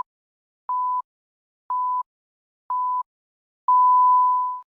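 Electronic countdown beeps, all at one pitch: three short beeps a second apart, then a longer final beep lasting about a second. This is a sync countdown marking the start point for playing along.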